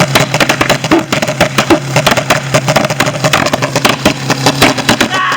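A car engine revving hard and loud, with a rapid, irregular stutter of sharp exhaust pops over a steady low drone.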